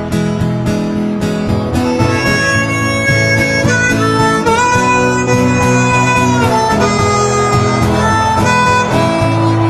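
Instrumental introduction on strummed acoustic guitar, with a harmonica joining about two seconds in to play the melody in held, bending notes.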